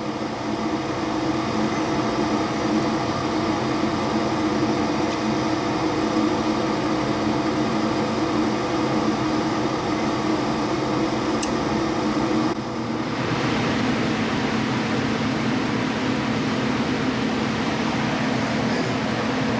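Gas furnace running through its start-up sequence: a steady mechanical hum from its inducer motor. About two-thirds of the way through the sound changes suddenly to a steadier rush as the furnace steps to its next stage.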